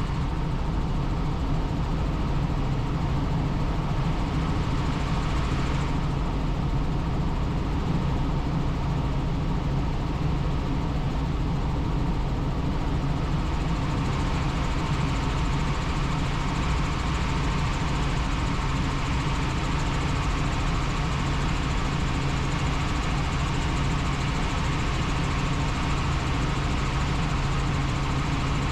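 Helicopter in flight: a steady drone of engine and rotor with an even hiss of airflow, unchanging in loudness throughout.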